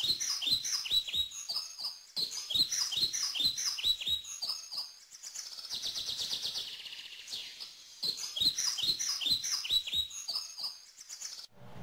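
Forest birds chirping: quick runs of short, falling chirps, with a faster trill in the middle of the stretch.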